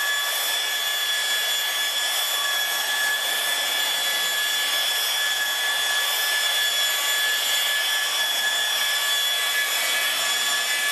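Electric car polisher (buffer) running steadily with its pad on the paint, giving a steady whine over a rubbing hiss, for a light buff of the paint.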